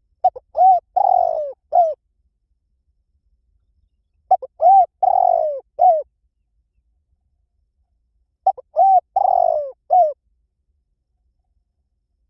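Spotted dove singing its 'kích bổi' call, the territorial coo that bird trappers use to lure wild doves: three identical phrases about four seconds apart. Each phrase is four coos, with the third longer and rougher than the rest.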